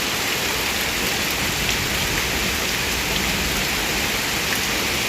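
Heavy rain falling steadily: a dense, even hiss of rain on surfaces with scattered faint drop ticks.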